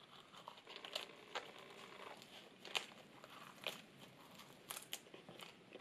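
Faint chewing and crunching as a mouthful of perilla-leaf wrap (ssam) with pork belly, garlic and dried radish is bitten into and chewed, heard as scattered soft clicks and crunches at irregular moments.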